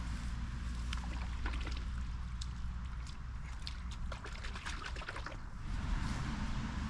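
Kitchen knife blade being scraped over an oilstone during sharpening, with a run of short scraping clicks in the middle, over a steady low rumble.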